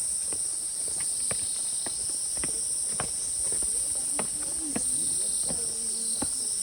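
A steady, high-pitched chorus of insects chirring without a break, with scattered short knocks over it.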